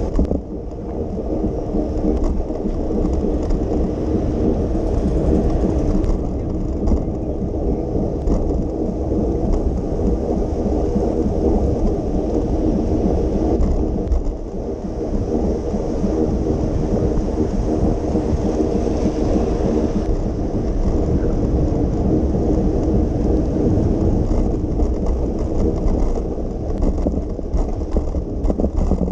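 Steady low wind rumble on the microphone of a moving bicycle ridden through rain, with a hum of steady tones and a faint hiss of wet tyres and rain above it.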